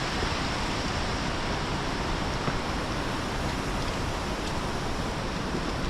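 Steady rush of fast-flowing mountain stream water and small falls over rocks.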